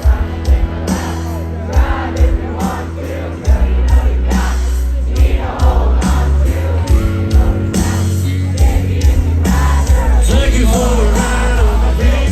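Live country band playing loud, with heavy bass and steady drum hits, and singing over it.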